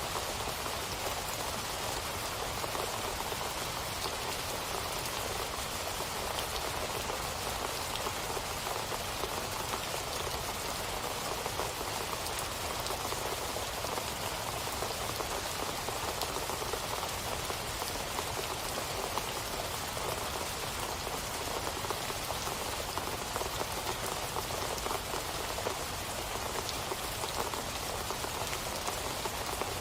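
Steady rain falling on a surface, an even patter of drops.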